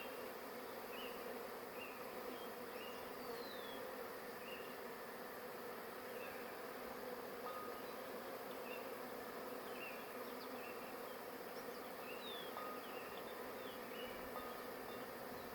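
A large honey bee swarm buzzing at the stack of hive boxes it is moving into: a steady, even hum. The bees are taking the boxes as their new home.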